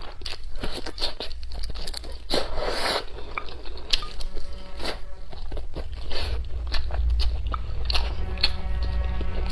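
Close-miked biting and chewing of spicy braised pork ribs and pig intestines, with many sharp wet mouth clicks and smacks.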